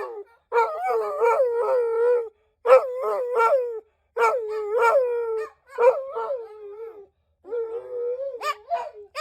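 Dog howling: five drawn-out howls, each a second or two long, with a wavering pitch and short breaks between them.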